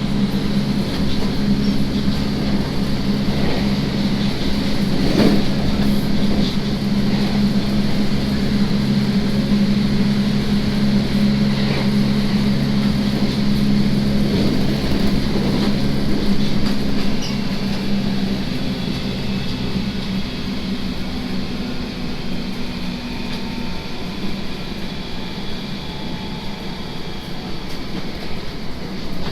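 JR Kyushu 811 series electric multiple unit running at speed, heard from inside the car: a steady low hum of several tones over wheel and rail rumble. The hum fades out between about 18 and 24 seconds in, leaving a quieter rumble, consistent with power being shut off to coast.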